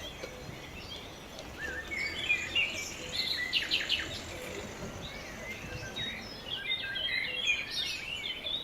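Small birds chirping and twittering, many short, quick notes, busiest from about two seconds in, over a steady low background noise.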